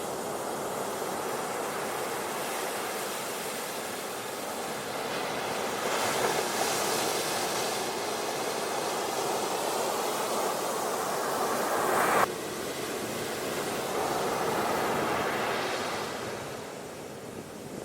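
Ocean waves washing onto a beach, rising and falling in swells. One swell builds and then breaks off suddenly about twelve seconds in.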